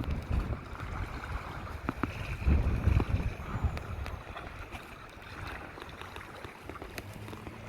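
Wind buffeting the microphone in gusts, loudest at the start and again about two and a half seconds in, over small waves of a stiff chop lapping and slapping against a drifting kayak's hull.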